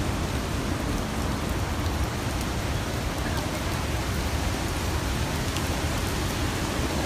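Steady heavy rain and wind in a typhoon, an even, unbroken rush of noise.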